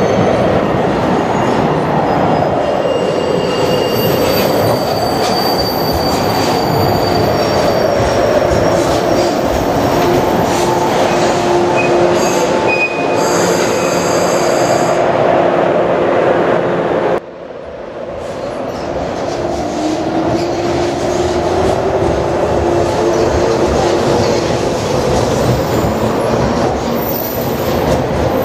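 JR Kyushu 415 series electric train running through the station, its wheels rumbling on the rails under a steady whine that glides in pitch. About two-thirds of the way in the sound breaks off abruptly, and another passing train is heard building up again.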